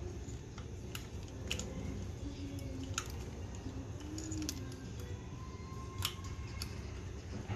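Scattered light clicks and small metallic taps of hand work on an ATV's carburetor and control cables, over a steady low background hum.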